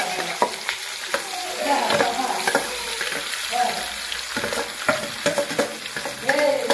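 Spiced boiled-potato filling frying with a steady sizzle in a steel kadhai, while a steel bowl and spatula scrape and knock against the pan at irregular intervals as the potato is tipped in and stirred.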